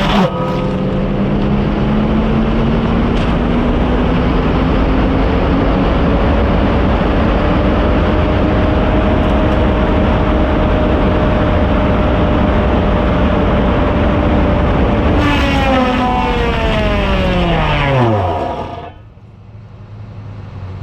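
Motor-driven saw running at high speed while cutting. Near the end it is switched off and its pitch falls away over about three seconds as it winds down to a stop.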